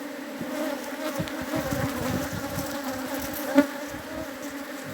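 Swarm of honeybees buzzing around an open hive, a steady hum with overtones. A single light knock about three and a half seconds in.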